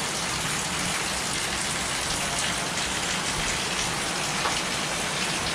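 Rain pouring down steadily, an even hiss that does not let up.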